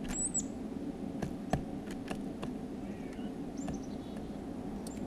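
Small songbirds giving short, high chirps, once near the start and again about three and a half seconds in. Several sharp clicks come in between, over a steady low background rumble.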